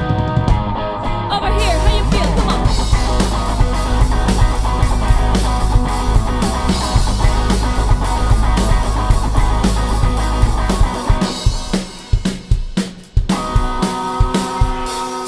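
A rock band playing an instrumental passage: electric guitar over drum kit and bass. Near the end the band thins out to a few drum hits, then comes back in with held chords.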